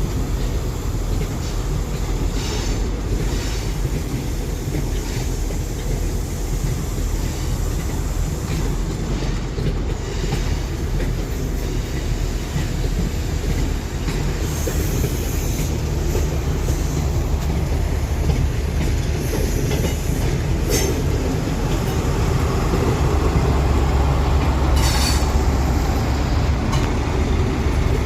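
Diesel passenger train running along the rails: a steady rumble of wheels with scattered clicks over the rail joints and brief high squeals, swelling a little louder near the end.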